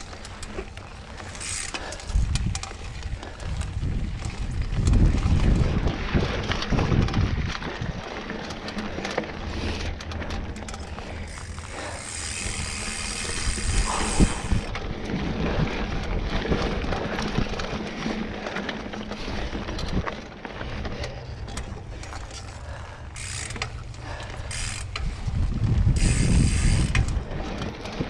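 Mountain bike ridden down a dirt trail: the rear freehub ratchets and clicks while coasting, over tyre noise and rattling from the bike. Low rumbling surges come and go a few seconds in and again near the end, and a brighter hiss runs for a couple of seconds around the middle.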